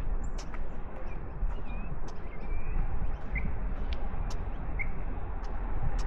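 Small birds chirping in short, scattered calls and sharp clicks, over a steady low rumble of wind on the microphone.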